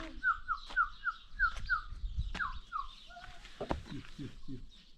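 A bird calling: a quick run of short, falling chirps, several a second, then a few lower falling calls near the end, with a sharp knock among them.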